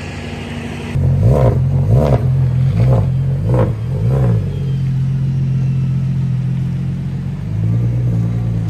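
Single-turbo BMW 335i inline-six, idling and then blipped five times in quick succession about a second in. It is then held at a steady raised rpm for a few seconds and eases back near the end.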